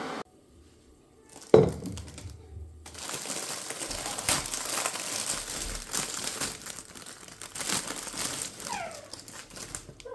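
A steady rushing noise cuts off at the start, and a sharp knock with a short ring follows about a second and a half in. Then comes several seconds of crinkling and rustling, the sound of packaging being handled.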